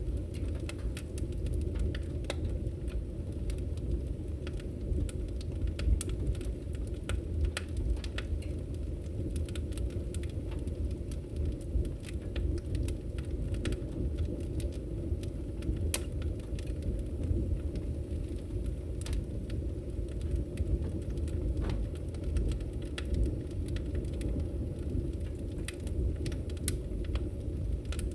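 Campfire burning: a steady low rumble with irregular sharp crackles and pops scattered throughout.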